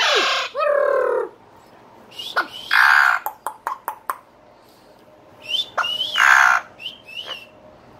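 A pet talking parrot making harsh rasping calls, three times, between short high chirps and clicks.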